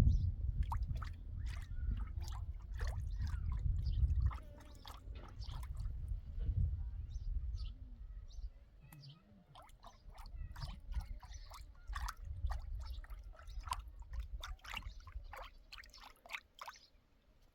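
Liquid splashing and dribbling in short, irregular spurts, with a low rumble during the first four seconds.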